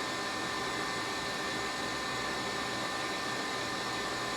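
Steady machine-shop background noise: an even hiss with a low hum and a few faint steady tones, like a fan or air equipment running, with no distinct knocks or tool strokes.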